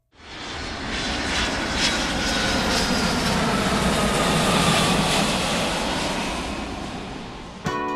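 An aircraft passing: steady engine noise that swells in, holds, then fades away near the end, with a faint tone slowly falling in pitch.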